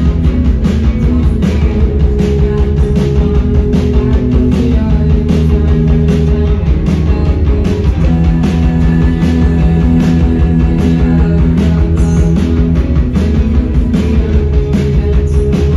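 Live rock band playing loudly: electric guitars over a steady drum beat.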